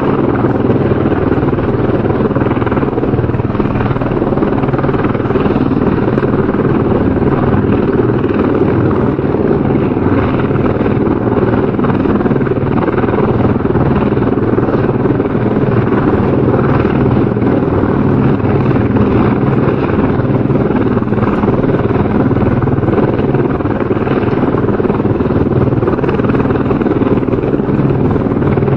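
Helicopter rotor and engine running, a steady loud continuous noise.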